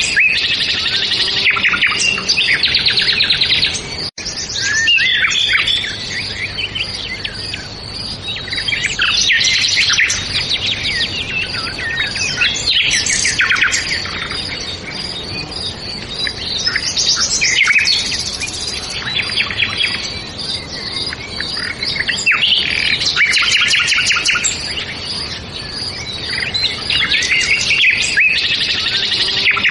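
Several small songbirds chirping and singing together, overlapping bursts of rapid high chirps and trills that swell and ease every few seconds, broken by a split-second dropout about four seconds in.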